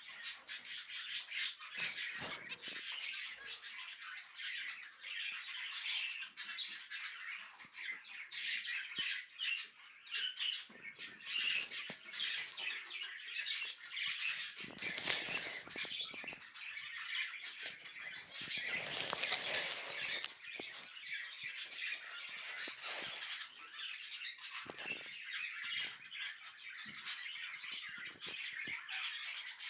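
A group of caged finches chirping continuously in dense, overlapping high calls, with a couple of bursts of wing flutter or rustling in the middle.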